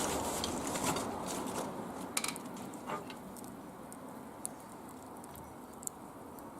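Wood fire crackling in a barbecue grill, with a few scattered sharp pops over a steady hiss. A louder rushing hiss at the start eases off over the first couple of seconds.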